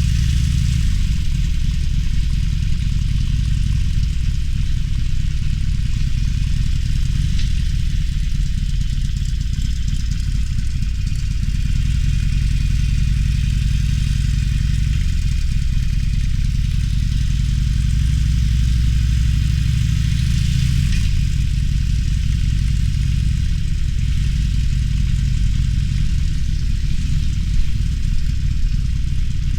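Harley-Davidson Roadster's air-cooled V-twin engine running steadily at low revs, its low, even pitch shifting slightly now and then.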